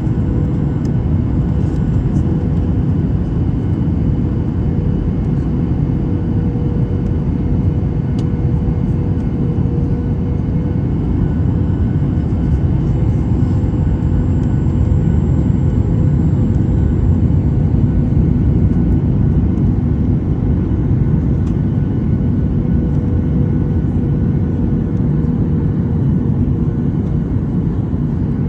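Steady noise of an airliner's jet engines and rushing air heard inside the passenger cabin, with a constant hum running through it.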